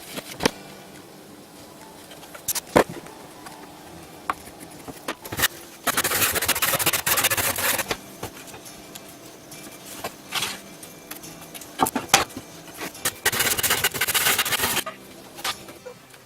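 Hand work on wood and tools: scattered knocks and clicks, with two longer stretches of scraping about six seconds in and near the end.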